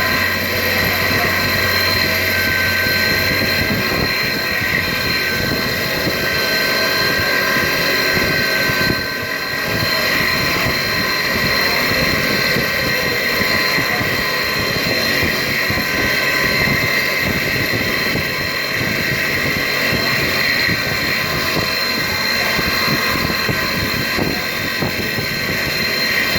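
CNC milling machine cutting a die-cast part: a steady high spindle whine made of several held tones over rough cutting noise, briefly dropping in level about nine seconds in.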